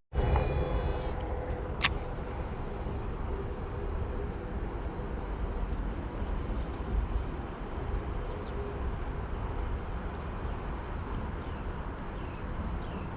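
Outdoor ambience of a riverside park walk: a steady low rumble, with a sharp click about two seconds in and faint short bird chirps repeating roughly once a second through the later part.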